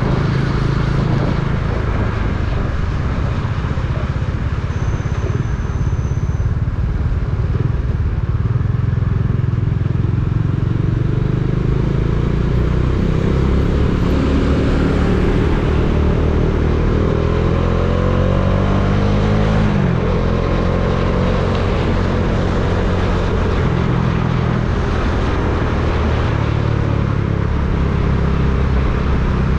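Motorcycle engine running under way with steady road and wind noise. The engine note climbs from about the middle of the stretch, then drops sharply about two-thirds of the way in, like a gear change, and carries on steady.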